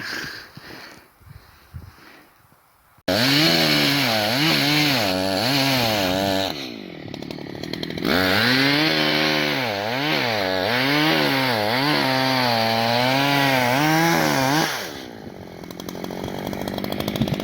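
Two-stroke chainsaw running at high revs and cutting wood, its engine pitch swinging up and down as the cut loads it. It starts suddenly about three seconds in, eases off briefly partway through, and drops back to a lower, steadier run near the end.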